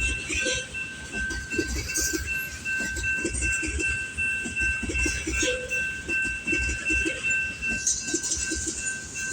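Canadian Pacific oil train of tank cars rolling past at speed, the wheels clattering in quick rhythmic groups over the rail joints. A steady high-pitched ringing tone runs through the passing.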